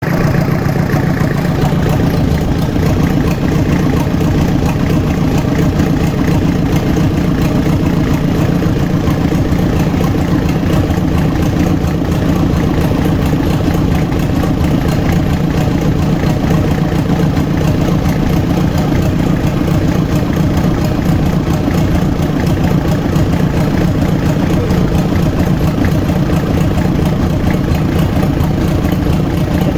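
Yanmar diesel engine running steadily at an even speed after a repair, with a fast, even firing beat and no change in speed.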